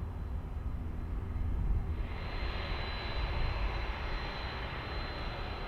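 Low, steady rumble of jet airliner engines. About two seconds in, a hiss of radio static comes in over it.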